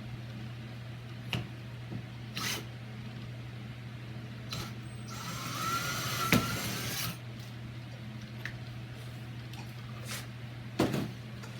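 Power drill with a long tapered bit boring through the edge of a door, running for about two seconds midway with a sharp knock in the middle of the run. A few separate clicks and knocks come before and after, over a steady low hum.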